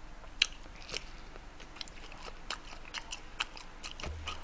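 A person chewing a mouthful of kimbap close to the microphone: irregular soft mouth clicks and wet smacks, roughly two a second.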